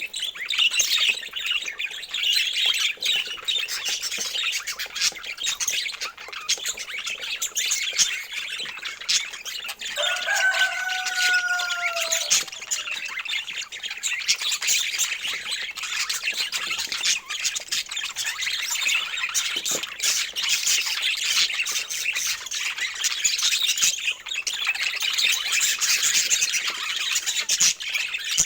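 A flock of budgerigars chattering and warbling nonstop. About ten seconds in, a longer, lower call falls slightly in pitch over two seconds.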